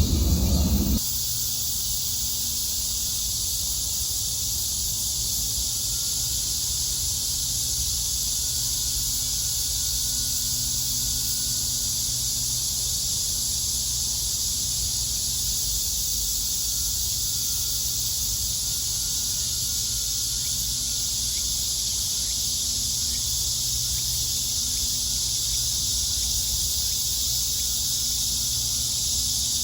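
Cicadas droning steadily as a continuous high-pitched chorus. A louder low rumble is cut off abruptly about a second in.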